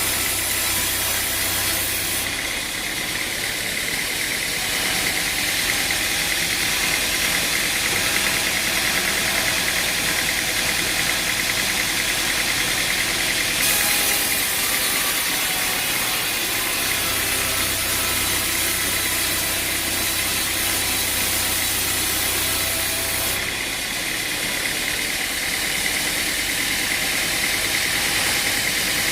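A machine engine running steadily, with the sound changing abruptly three times.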